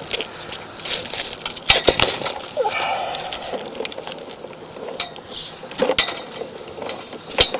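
Irregular clinks, knocks and scraping from a sewer inspection camera's push cable being worked through a root-clogged clay drain line.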